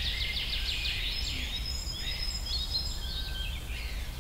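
Small birds chirping: a fast trill at the start, then scattered chirps and short whistles, over a steady low hum.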